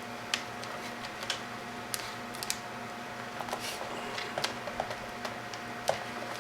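Scattered small clicks and ticks of wire and tape being handled and routed, over a steady background hum.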